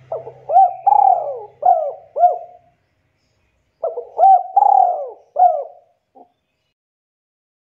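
Spotted dove cooing: two phrases of about four arching coo notes each, with a pause of about a second between them.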